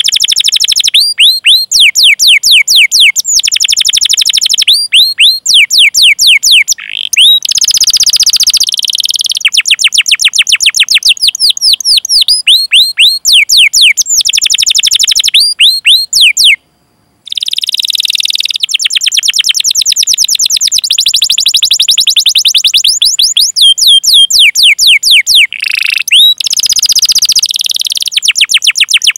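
Domestic canary singing: long runs of rapid, repeated downward-sweeping 'cuit cuit' call notes alternating with fast rolled trills. There is a brief silent break a little past halfway.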